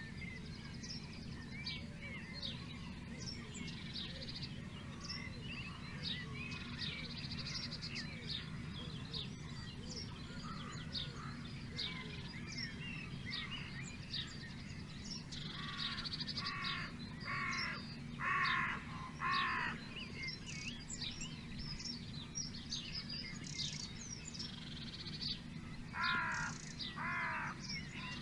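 Birds singing: many small birds chirping and trilling, joined past the middle by a loud harsh call repeated five times about a second apart, and twice more near the end, over a steady low rumble.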